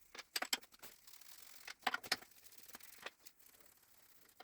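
Scattered light metallic clicks and knocks of hand tools and engine parts being handled as the timing-chain idler housing is worked off the engine. They come in small clusters near the start and around two seconds in, with a single knock about three seconds in.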